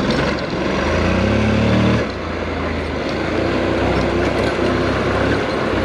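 Honda NC700X's parallel-twin engine running as the bike rides along, with wind and tyre noise. The engine pitch rises for about a second, then drops sharply about two seconds in as the throttle comes off or a gear changes.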